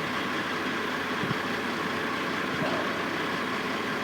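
Steady running of heavy construction-site engines (cranes, trucks, cherry pickers), an even, unbroken machine noise with no single event standing out.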